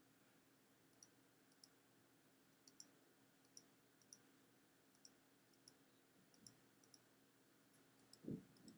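Faint, irregular clicks of a computer mouse button, a dozen or so over the stretch, with a soft low thump about eight seconds in.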